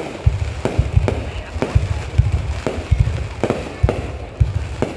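Fireworks display: a rapid, irregular series of bangs, about two or three a second, each with a deep boom.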